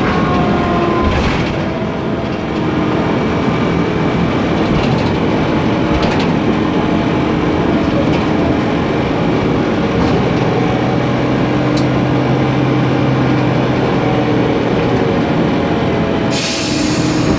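Steady running noise inside a Mercedes-Benz Conecto NGT city bus: its rear-mounted M 936 G natural-gas engine and its noisy cooling fan, with clicks and rattles from the body. A short hiss of compressed air comes near the end.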